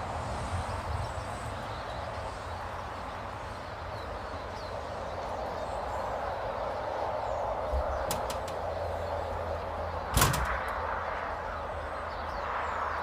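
Outdoor ambience at a garden bird table: a steady rushing background with low wind rumble and faint small-bird calls, a few light clicks about eight seconds in, and one sharp knock about ten seconds in.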